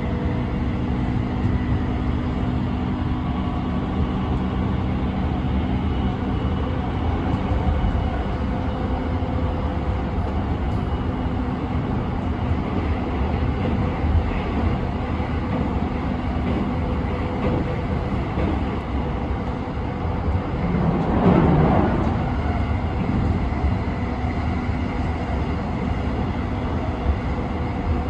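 JR East E217 series electric train running at steady speed: continuous wheel-and-rail rumble with a few steady motor tones. About two-thirds of the way through, a louder swell rises and falls over a second or so.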